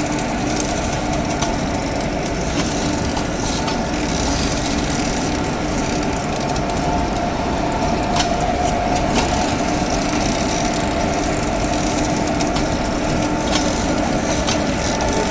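Electric locomotive standing with its on-board equipment running: a steady hum of several held tones over a hiss, with a few faint clicks.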